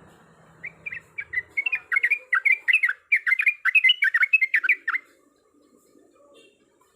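Yellow-vented bulbul (trucuk) singing a fast run of short, sweeping notes, about four or five a second, for some four seconds before breaking off.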